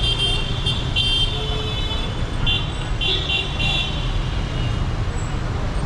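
Street traffic with repeated vehicle horn honking: short high horn blasts in quick runs through the first two seconds and again around three seconds in, over steady engine and road noise.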